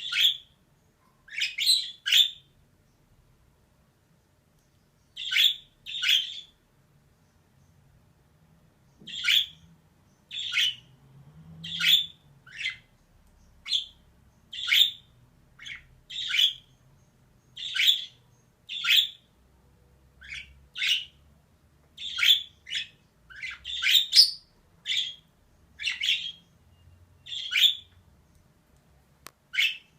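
Female budgerigar calling: short, harsh chirps repeated roughly once a second, some in quick pairs. There are two pauses of a few seconds near the start, and the calls come faster after that.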